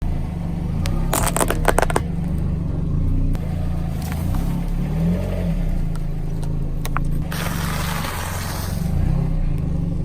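Car engine running low and steady, with a cluster of sharp cracks about a second in and a longer burst of crackling noise near the end.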